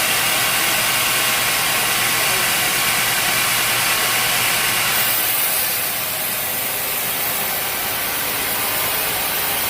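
Sawmill machinery running steadily with a mechanical drone and hiss. A little past halfway the hiss grows brighter and the overall level drops slightly.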